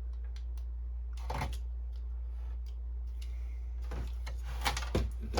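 Scattered plastic clicks and rattles from parts of a disassembled inkjet printer being handled, with a small cluster of them near the end, over a steady low hum.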